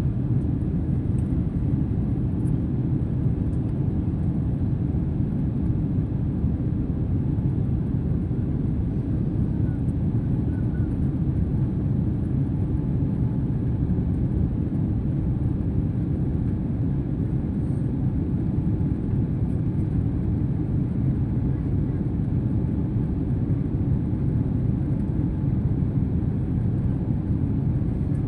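Steady low rumble of engine and airflow noise inside a passenger airliner's cabin, unchanging throughout.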